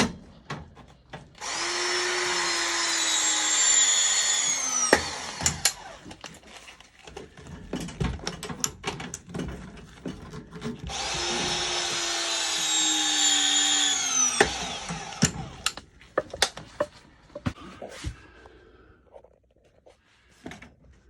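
A cordless power tool runs twice at a steady speed for about three and a half seconds each time, its pitch falling as the motor winds down after each run. Short knocks and clicks of tools and parts being handled come between and after the runs.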